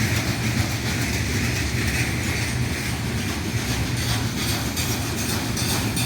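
Freight train passing, its wagons making a steady rumble and clatter of wheels on the rails.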